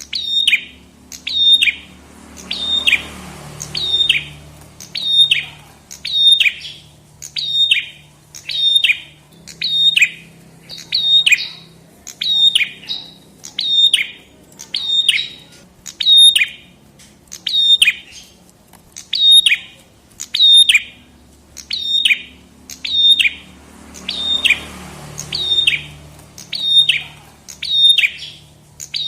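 Prenjak kepala merah (a red-capped prenjak) calling over and over: a short, sharp note that falls in pitch, repeated a little less than once a second, steady and evenly spaced.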